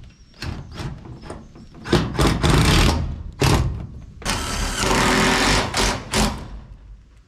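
Cordless driver whirring in bursts, driving screws through metal roofing panels, the longest run lasting about two seconds. Sharp knocks and clatter of the metal sheets being handled come in between.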